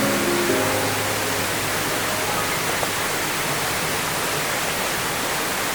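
Steady rush of a fast-flowing mountain stream. A few held music notes die away about half a second in.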